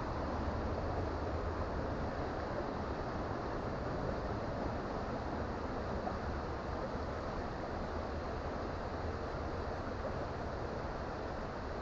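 Creek water flowing with a steady rushing sound.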